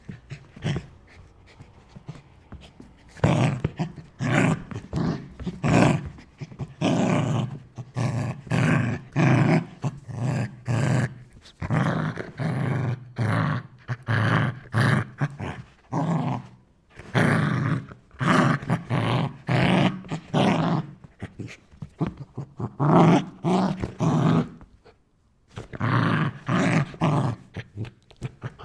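Angry dog barking and growling in a long run of short, closely spaced barks, with a brief pause about 25 seconds in.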